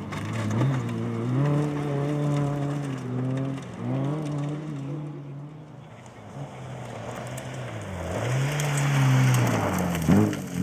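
Fiat Cinquecento rally car's engine revving hard through the gears, its pitch dropping at each shift. It eases off around the middle, then pulls hard again with a rising hiss of gravel under the tyres, and a short bang comes just before the end.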